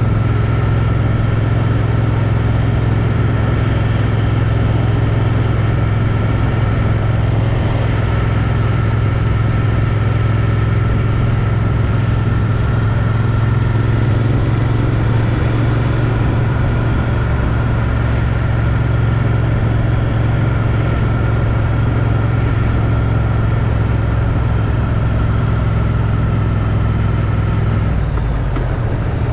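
Triumph Street Twin's 900 cc parallel-twin engine on its stock exhaust, running steadily at a constant cruise, heard from a helmet chin mount. Near the end the engine note drops as the throttle is eased off.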